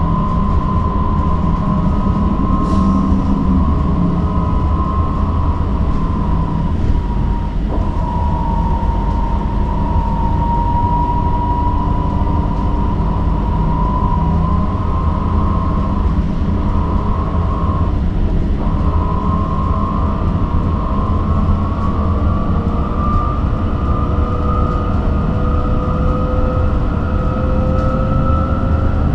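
Electric bus in motion, heard from inside the cabin: a steady low road rumble under the electric traction motor's whine. The whine drifts up and down in pitch with speed and rises near the end as the bus accelerates.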